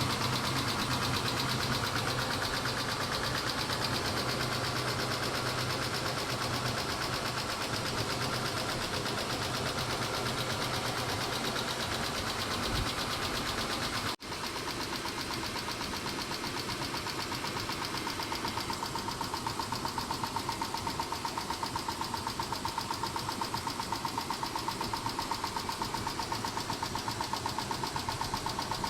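Mitsubishi 6G72 V6 engine idling with a fast, even ticking from the valvetrain, which the owner takes for noisy hydraulic lash adjusters, though he wonders whether the engine itself is worn. The sound breaks off for an instant about halfway, then carries on.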